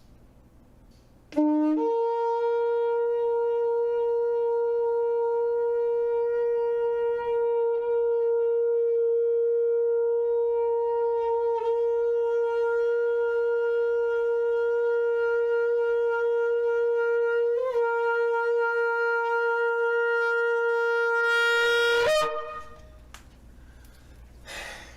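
Shofar sounding a tekiah gedola, the single long 'great' blast. It opens with a brief lower note about a second in, then holds one steady note for about twenty seconds and ends with a quick upward flick before stopping.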